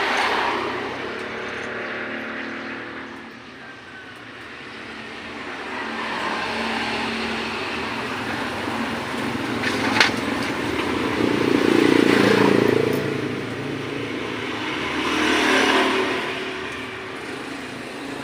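Motor vehicle engine noise that swells and fades several times, with one sharp click about ten seconds in.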